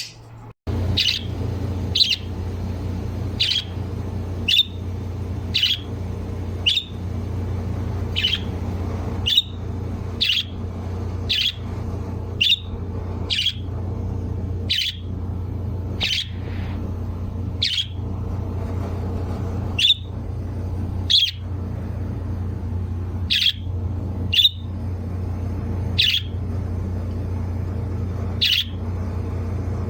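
A pet bird giving short, sharp chirps again and again, about one every second or so, over a steady low hum.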